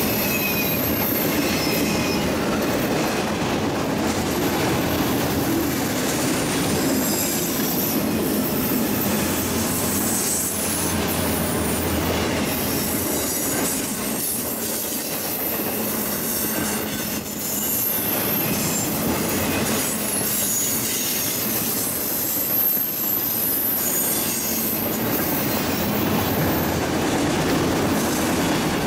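Train rolling past at close range: a steady clatter and rumble of wheels on the rails, with high-pitched wheel squeal that comes and goes.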